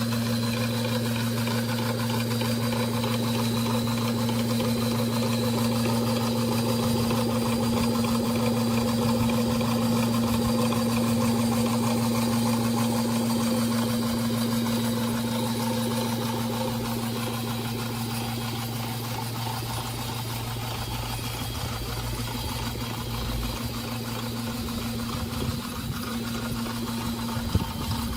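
Restored 220 V, 1.5 kW (2 hp) single-phase induction motor running steadily with a constant electrical hum, slightly quieter in the second half.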